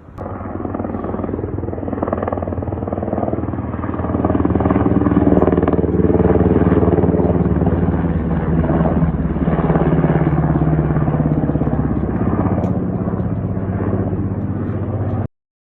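Aircraft engine running with a steady pitched drone, growing louder about four seconds in, then cutting off abruptly near the end.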